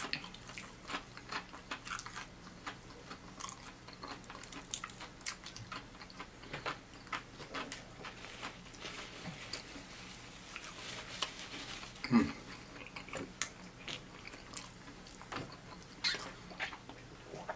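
Close-miked chewing of crispy fried chicken: wet mouth clicks, smacking and light crunching. Around the middle a paper napkin rustles as greasy hands are wiped, and one louder mouth noise stands out about two-thirds of the way through.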